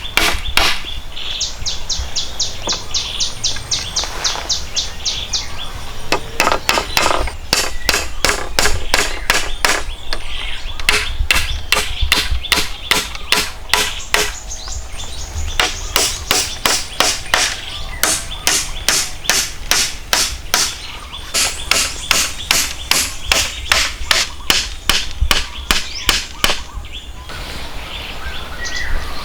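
A hand tool striking hard again and again in a steady rhythm, two or three sharp blows a second, with a brief pause partway through. The blows stop shortly before the end.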